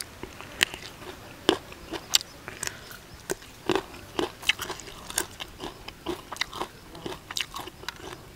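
Close-up chewing of a mouthful of raw pea eggplants, with irregular crisp crunches about two or three times a second as they are bitten through.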